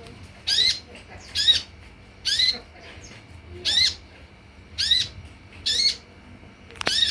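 Sunbird giving seven short, sharp calls about a second apart, each a quick rise-and-fall note, with a couple of sharp clicks near the end.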